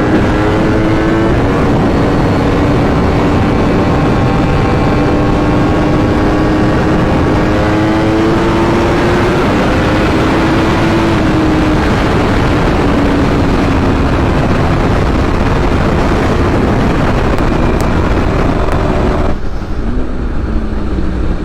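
A vehicle engine runs at a steady high speed under loud wind rush, its pitch drifting slowly up and down. About nineteen seconds in, the sound changes and the hissing rush drops away.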